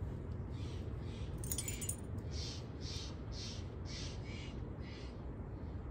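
A bird calling in a series of short calls, about two a second, over a steady low rumble.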